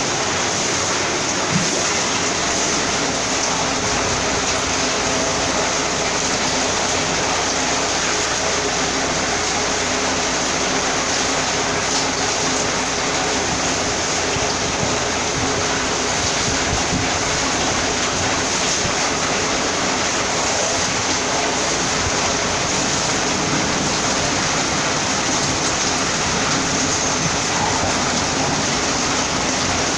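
Heavy rain pouring down in a steady, dense hiss. There is one brief knock about a second and a half in.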